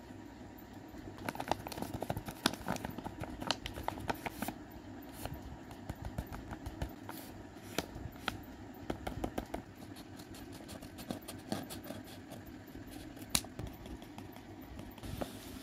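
Paper being handled and unfolded by hand: irregular rustling and crinkling with many short, sharp crackles and taps, over a steady low hum.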